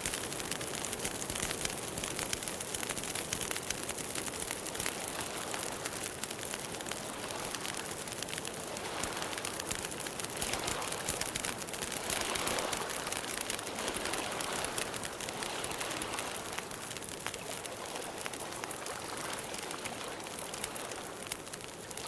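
Campfire burning: a steady dense crackle of small pops over a hiss, swelling a little in the middle.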